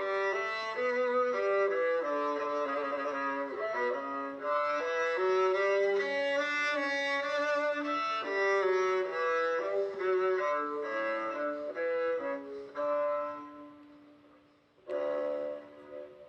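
Nokia 3110 Classic ringtone: a polyphonic melody in a string-like voice, note by note over chords. It fades out near the end, then a short new chord sounds about a second later.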